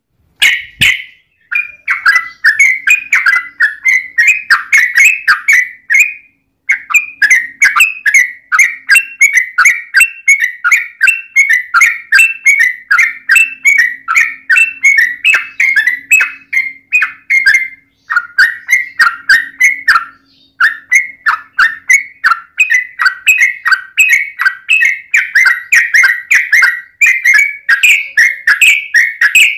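Yellow-vented bulbul (trucukan) calling in long, rapid runs of chirping notes, broken by short pauses about a second, six seconds and eighteen seconds in.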